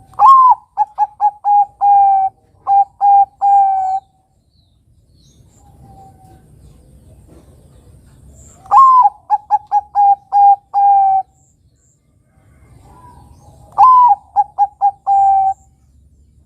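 Bangkok-strain zebra dove (perkutut) singing three song phrases. Each phrase opens with a rising-and-falling coo, then runs into a quick string of short, even coos and ends on a longer held note.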